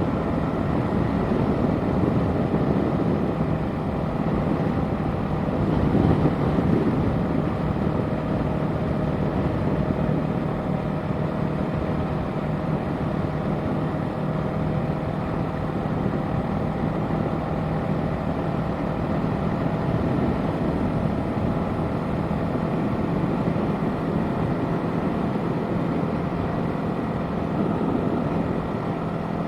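Yamaha parallel-twin sport bike running at a steady cruising speed, with wind rushing over the rider's microphone and a brief swell about six seconds in.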